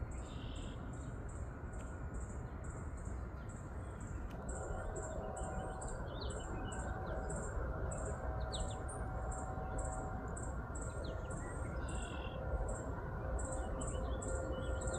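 Backyard birdsong: scattered short bird chirps and tweets, over a steady high pulsing chirp about three times a second, like an insect trilling, and a low background rumble.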